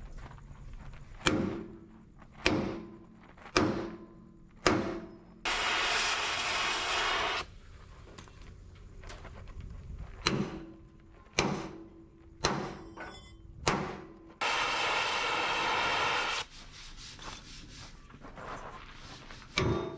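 Sharp ringing knocks, four about a second apart, then a hiss lasting about two seconds; the same pattern repeats once.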